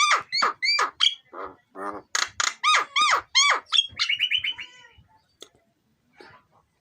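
Javan myna calling: a rapid string of loud, sharply down-curving squeaky notes, ending about four seconds in with a short fast rattle, after which it falls mostly quiet.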